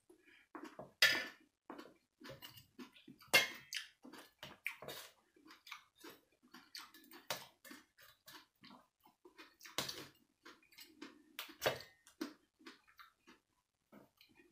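Close-miked wet chewing and lip-smacking of a person eating a juicy grape salad, a quick run of small mouth clicks. A few sharper clicks stand out, about a second in, near three and a half seconds, and twice near the end, as the spoon knocks and scrapes against the metal serving tray.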